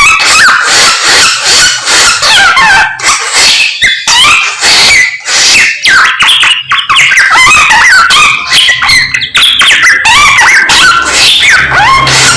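A samyong songbird singing loudly and without pause: a rapid string of chirps and whistled notes sliding up and down in pitch.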